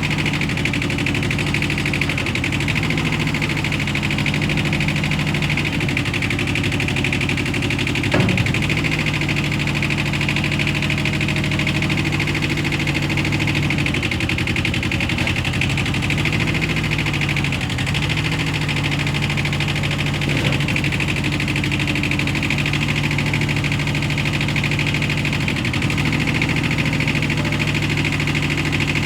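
Kubota B4200 compact tractor's diesel engine running steadily, its note dipping briefly a few times, with one sharp knock about eight seconds in.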